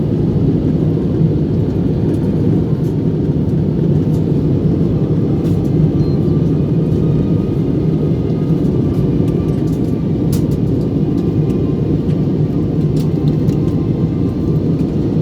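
Steady drone of an airliner cabin during descent: engine and airflow noise, heavy in the low end, with a few faint clicks.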